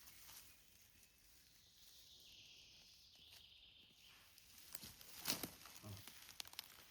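Quiet forest with faint rustling and crunching steps on the forest floor, a few sharper ones about five seconds in.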